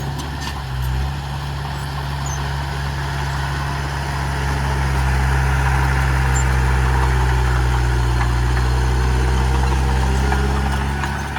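Heavy diesel engine of earthmoving machinery running steadily, growing louder about halfway through and easing off near the end.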